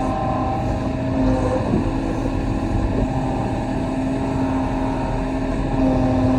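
Kobelco SK35 mini excavator's diesel engine running steadily, its note drifting slightly in pitch as the machine works.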